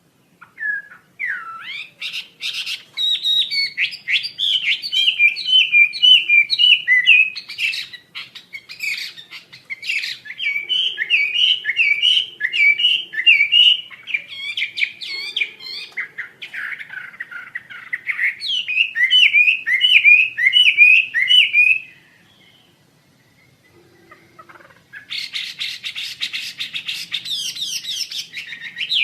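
Wambi songbird singing a rapid, varied string of chirps and whistles. It stops for a few seconds near the end, then starts again with a dense burst of fast notes.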